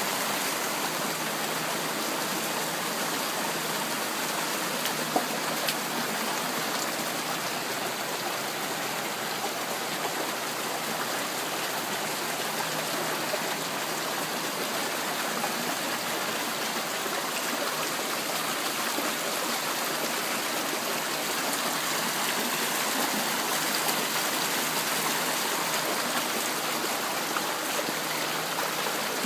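Floodwater rushing steadily, an even hiss of flowing water.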